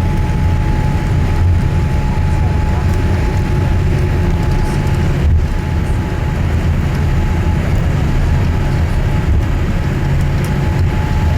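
Cabin noise inside a Boeing 787-8 taxiing after landing: a steady low rumble from its General Electric GEnx-1B engines at idle and the aircraft rolling, with a thin steady whine running through it.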